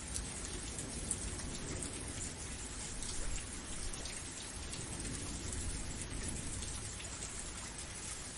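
Steady rain, with fine drops pattering on a surface and a low rumble underneath.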